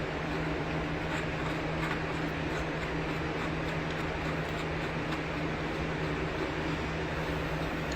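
Steady mechanical hum, like a fan or air conditioner running, with a few faint light clicks of small parts being handled.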